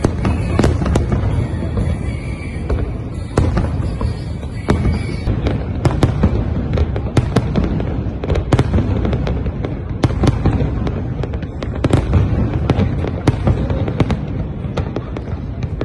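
Fireworks display: a dense, continuous run of sharp bangs and crackles over a low rumble.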